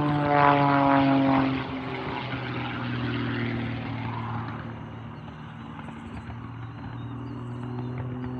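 Propeller aircraft engine flying past. It is loudest in the first second and a half, its pitch falling as it goes by, then it fades to a steady, lower drone.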